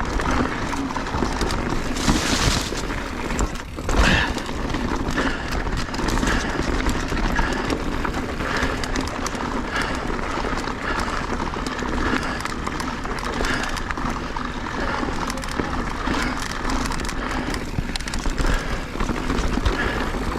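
Mountain bike descending a rocky downhill trail at speed: continuous tyre and trail noise with frequent knocks and rattles from the bike going over rocks, and one sharp louder hit about four seconds in.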